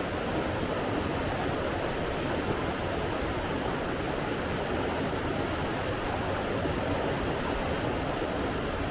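Steady rushing of running water, an even, unbroken noise.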